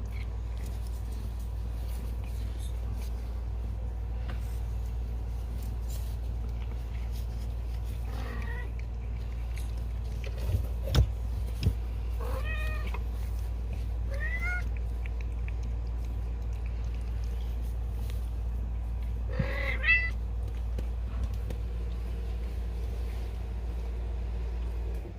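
A cat mewing four times in short, wavering calls, spread across the stretch. There are a few sharp knocks near the middle, over a steady low hum.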